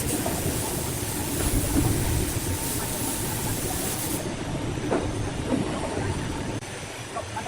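Heavy machinery rumbling steadily, with scattered knocks and clatter; the sound changes about four seconds in, where the recording appears to be cut.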